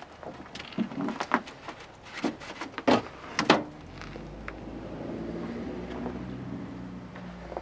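Sharp metal clicks and knocks of a pickup truck's hood latch being released and the hood raised, the two loudest about three seconds in. Then a steady low hum sets in and carries on.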